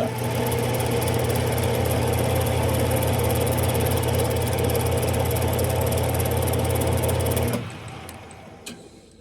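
Smithy lathe running steadily at speed with a low hum and a broad whir, then switched off about seven and a half seconds in and coasting down.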